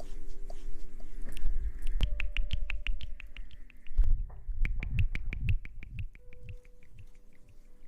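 A quick, even run of small sharp clicks, about eight to ten a second, lasting some five seconds, with low thumps under the first of them, as close-miked ASMR trigger sounds.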